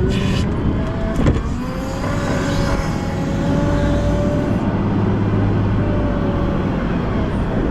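Volvo L90F wheel loader's diesel engine running steadily while clearing snow, with a whine that wavers in pitch over the engine rumble. A single sharp clunk about a second in.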